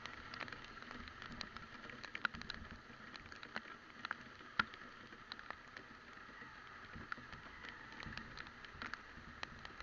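Rain pattering on the microphone: irregular sharp ticks of raindrops over a steady faint hiss of wet riding.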